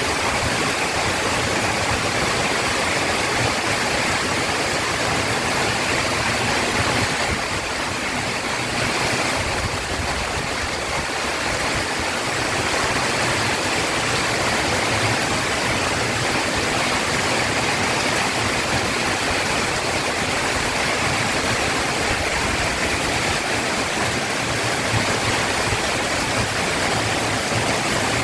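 Heavy rain pouring down steadily in a dense, even hiss, easing slightly for a few seconds about eight seconds in.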